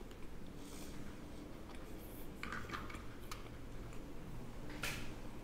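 Eating sounds during a seafood boil: a few small, sharp clicks and taps of handled shells, the loudest near the end, over low room hum.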